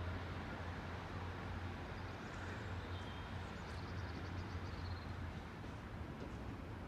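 Great Western Railway Class 800 IET bi-mode train drawing into the platform, its underfloor diesel engines giving a steady low drone. Faint high-pitched squeals come in around the middle.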